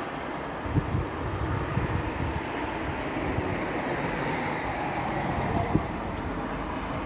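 Wind buffeting the microphone: a steady low rumble with irregular low thumps as gusts hit.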